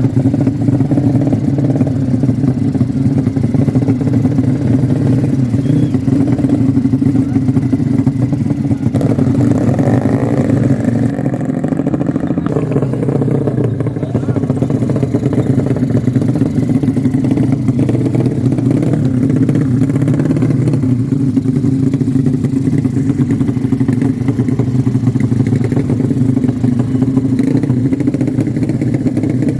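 Motorcycle engine running steadily at a constant pitch, without clear revving.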